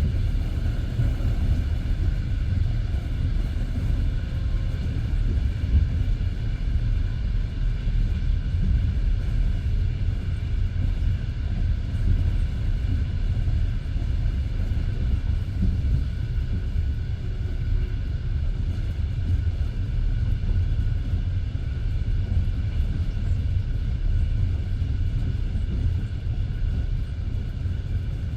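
Passenger train carriage rolling along the track: a steady low rumble of the wheels on the rails, with faint steady higher tones over it.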